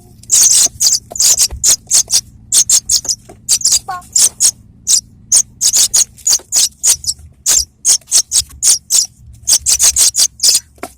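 Juvenile apung tanah, a pipit, calling with very high, short chirps in quick irregular runs of several a second, with brief pauses between runs.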